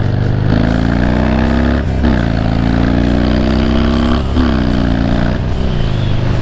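Cruiser motorcycle engine accelerating through the gears. Its pitch climbs, drops at a shift about two seconds in, climbs again and drops at another shift a little past four seconds, then settles to a steady cruise.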